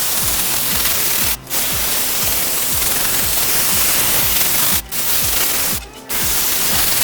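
Steam cleaner jetting a loud hiss of steam. It cuts out briefly about a second and a half in, near five seconds and around six seconds, as the steam is stopped and restarted. Background music with a steady beat plays underneath.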